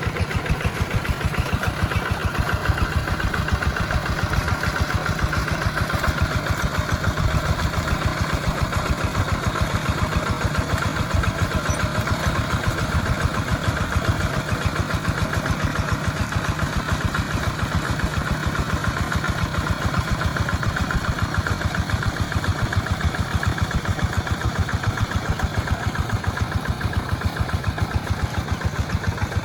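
Tractor engine running steadily, with an even, regular firing beat that does not change.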